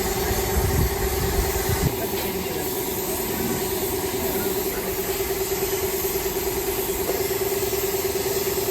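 A motor running steadily with a constant hum over a steady hiss.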